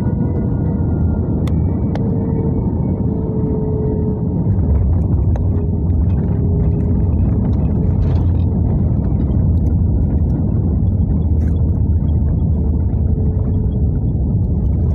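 Airbus A320 cabin noise: a steady low rumble of the jet engines and airflow, growing louder about four and a half seconds in, with faint steady engine tones above it.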